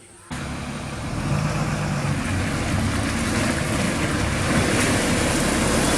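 A Tata 1613 tipper lorry's diesel engine running hard under load, with a loud rushing noise over it. It cuts in suddenly just after the start and grows steadily louder.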